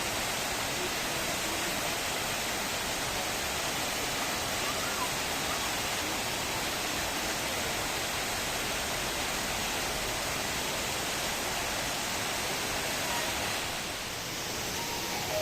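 Steady, even rush of water from the Düden Waterfall.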